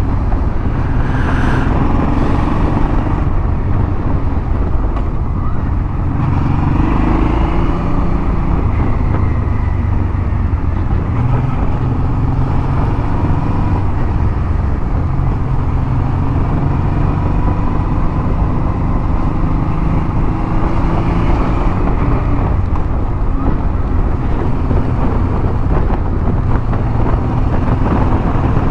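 Motorcycle engine running steadily while riding, mixed with wind rush, its note drifting up and down slightly with the throttle.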